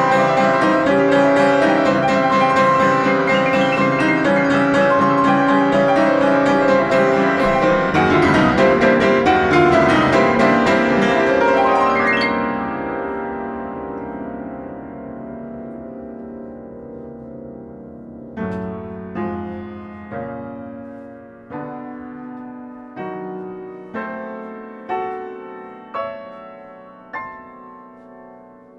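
Solo piano: a loud, dense passage of rapidly repeated notes breaks off about twelve seconds in and is left to ring out. A sparse run of quieter single chords follows, about nine of them struck roughly once a second, each left to fade.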